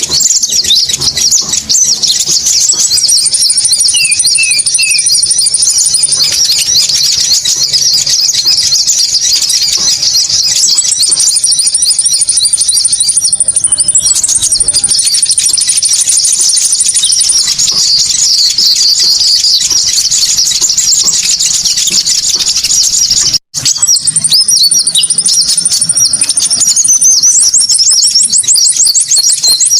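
Dense, loud chorus of konin birds chirping and trilling rapidly at high pitch: a bird-trapping lure call. The sound breaks off for a split second about 23 seconds in, then resumes.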